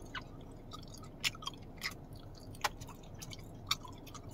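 Chewing a soft fruit gummy candy with the mouth close to the microphone: scattered wet mouth clicks and smacks, a few louder ones spread across the few seconds, over a low steady hum.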